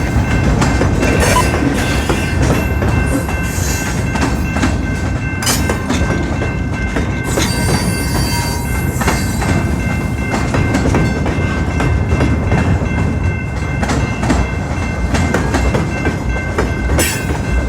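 Freight train cars rolling past close by: a continuous loud rumble of wheels with rapid clickety-clack over the rail joints. A few faint, steady high-pitched tones run through it.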